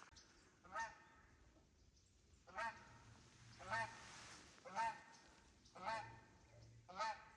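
Geese honking, a single honk about every second, six in all.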